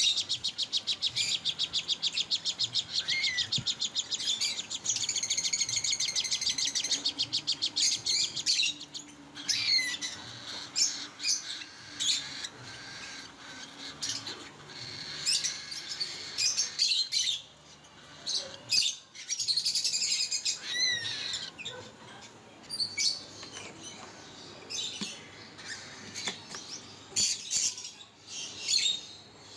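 Many caged small parrots, such as cockatiels and lovebirds, chattering and calling. For the first several seconds there is a fast, dense run of high chirps; after that come scattered sharp calls and short whistles.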